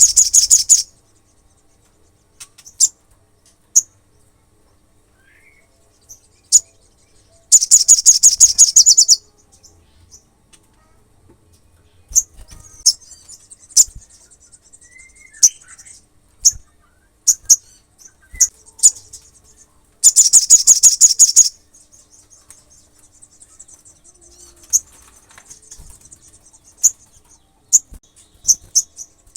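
Olive-backed sunbird singing: two loud, rapid, high-pitched trills of about a second and a half each, with sharp single chirps and a faint high twittering in between.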